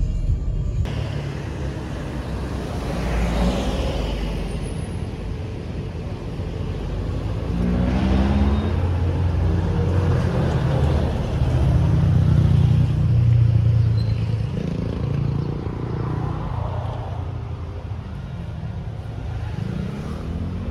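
A motor vehicle running with a steady low rumble, its engine pitch rising briefly a few times.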